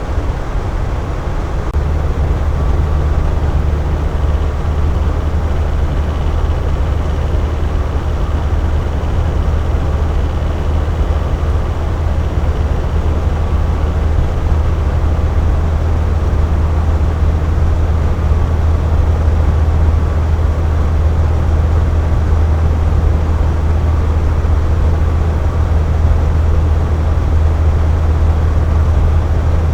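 Air conditioner running steadily: a low hum under an even rush of airflow noise, the hum growing a little stronger about two seconds in.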